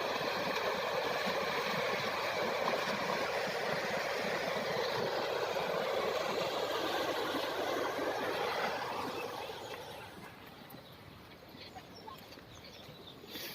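Heavy rain pouring down, a dense steady hiss that grows noticeably quieter about two-thirds of the way through.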